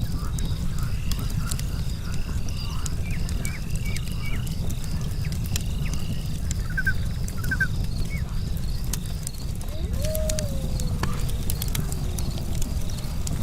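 Campfire burning with a steady low rumble and scattered sharp crackles of logs, over evening insects trilling high and steady. Short bird chirps come through, and about ten seconds in one drawn-out call slides down in pitch.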